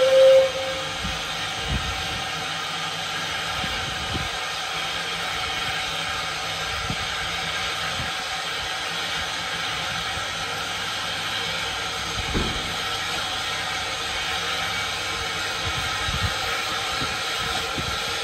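Narrow-gauge steam train running with a steady hiss and a few faint low thumps. It opens with one short whistle toot.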